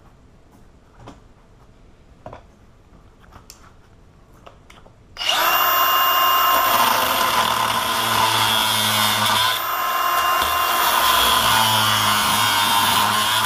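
A few light handling clicks, then about five seconds in an angle grinder starts and runs loud and steady, its cutting disc grinding into the hardened steel shackle of an ABUS 83/80 padlock, with a short dip in level near the middle.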